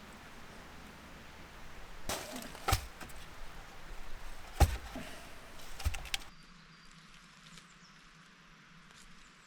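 Wood cracking and breaking: a few sharp cracks and snaps between about two and six seconds in, the loudest in the middle, then only faint background.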